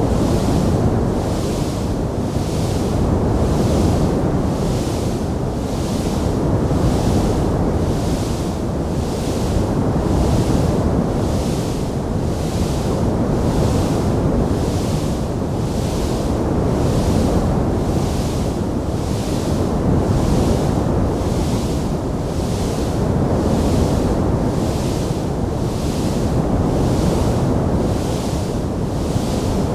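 Wood fire burning in a fireplace: a loud, dense, steady rush with a fainter hiss above it that swells and fades evenly about once a second.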